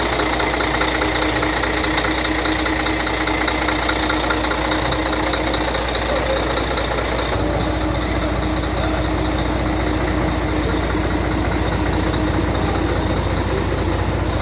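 Scania 113 truck's 11-litre straight-six diesel engine idling steadily.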